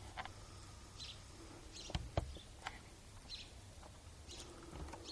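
Faint, short bird chirps repeating about once a second, with two soft knocks about two seconds in.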